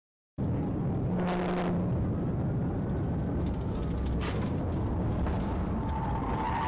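A moving car's road and wind noise, a loud, steady rumble that cuts in suddenly about half a second in, with a few knocks and a faint wavering tone rising and falling under it.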